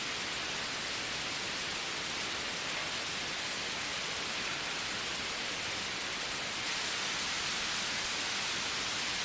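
A steady, even hiss with no breaks or distinct events.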